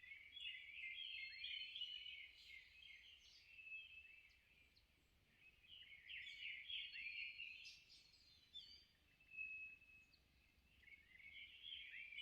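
Small songbirds chirping and twittering in quick, high, overlapping bursts, faint overall, with a lull in the middle.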